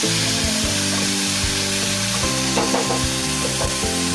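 Chopped onion, tomato and capsicum sizzling in oil in a non-stick frying pan, with a wooden spatula scraping and knocking against the pan as it stirs, over background music.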